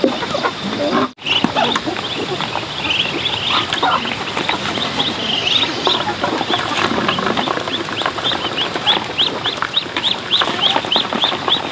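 Poultry calling: many short, high, rising peeps, running into a quick string of about three to four a second in the second half.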